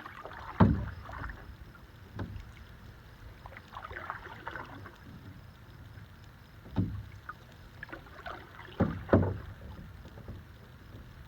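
Canoe being paddled: paddle strokes splashing and dripping in the water, with the paddle knocking against the canoe's gunwales a few times, hardest about half a second in and twice in quick succession near the end.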